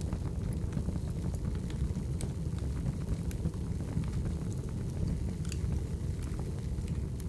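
Wood fire crackling: a steady low rumble with scattered sharp pops.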